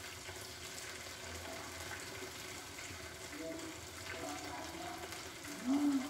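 Breaded pork strips sizzling in shallow oil in a small nonstick frying pan over low heat: a steady fizz with fine crackles. Just before the end a brief, louder low tone rises and falls.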